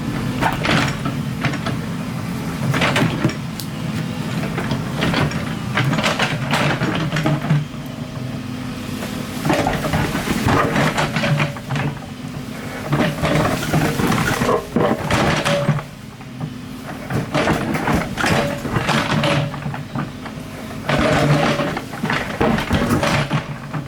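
Excavator's diesel engine running steadily, with a higher whine on top and irregular clanks and scrapes as it digs earth and rock.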